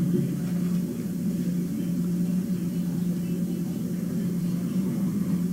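A steady low hum with a rumbling haze beneath it, like a running motor or fan.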